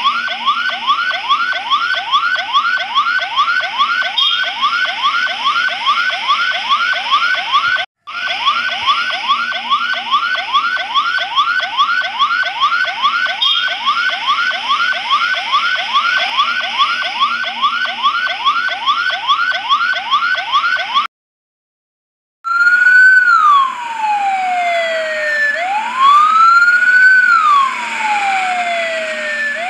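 Emergency-vehicle siren on a fast yelp, about four rising sweeps a second, broken once for a moment; it stops, and after a short silence it comes back as a slow wail rising and falling about every three seconds.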